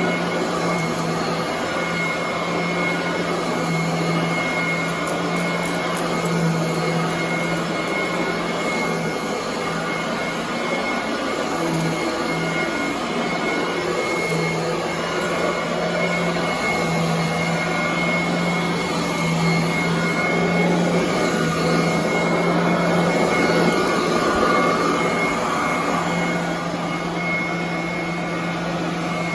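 Commercial upright vacuum cleaner running continuously on carpet, its motor giving a steady hum and a thin high whine over the rush of air, the level swelling and easing slightly as it is worked across the floor.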